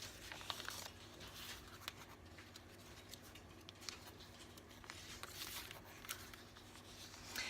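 Faint rustling and light ticks of paper pages and tags being handled in a handmade junk journal.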